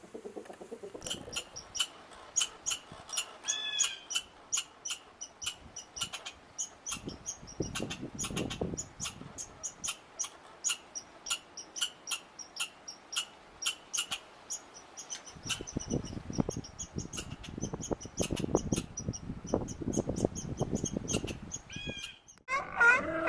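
A small animal chirping over and over, short high-pitched chirps about two a second, with low rustling from about two-thirds of the way through. A different, wavering call starts near the end.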